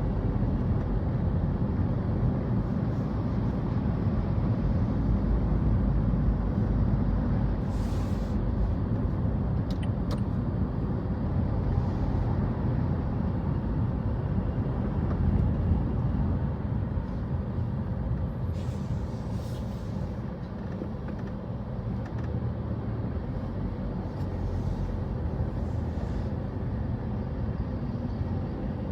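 Street traffic: a steady low rumble of passing cars and buses, with a few short hisses that come and go.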